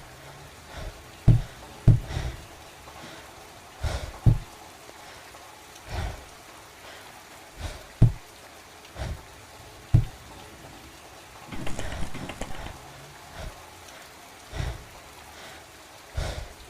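Steady rain-like hiss with about a dozen dull, heavy thuds at irregular intervals, a second or two apart, some in close pairs.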